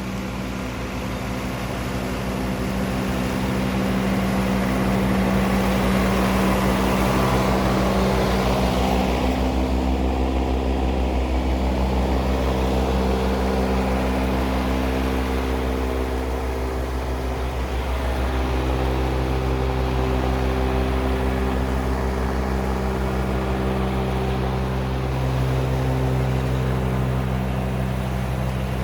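John Deere 3039R compact tractor's diesel engine running steadily under load while its 72-inch mid-mount mower deck cuts tall wet grass. It grows louder a few seconds in, then eases slightly.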